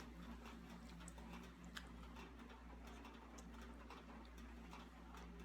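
Faint, irregular clicks and smacks of someone chewing while eating, over a low steady hum.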